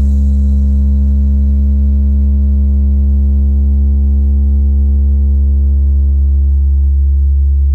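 A loud, steady deep bass test tone played through a large sound system's speakers, holding one pitch without change.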